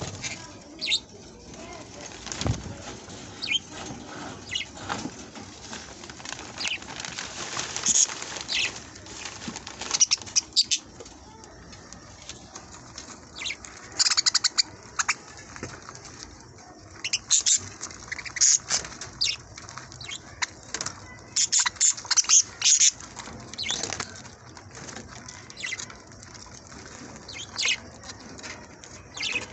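A flock of budgerigars chattering with many quick, sharp chirps, their wings fluttering now and then.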